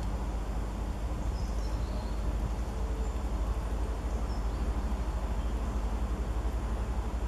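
Steady low rumble, with a few faint, short, high bird chirps about a second in and again around four seconds in.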